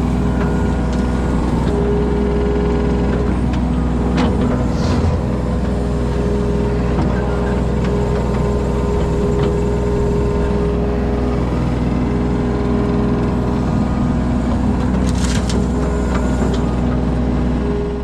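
Heavy-equipment diesel engine running steadily, with a few brief knocks about four seconds in and again near fifteen seconds; the sound cuts off suddenly at the end.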